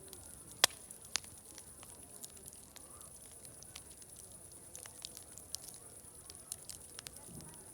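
Wood fire crackling, with irregular sharp pops over a steady high hiss; the loudest pop comes about half a second in and another just after a second. Faint distant voices murmur underneath.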